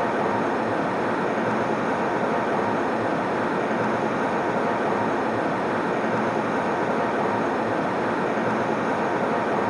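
Airliner cabin noise in flight: a steady, even rush that does not change.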